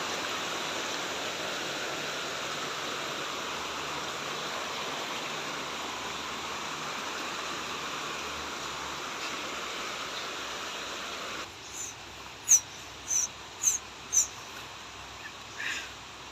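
Steady rush of flowing stream water that stops abruptly. Then come four short, high, slightly falling chirps about a second and a half later, likely from a bird.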